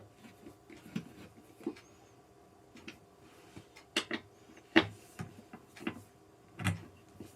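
Scattered knocks and clicks of gaming-chair parts being handled and fitted during assembly. The loudest knocks come about four and five seconds in and again near the end.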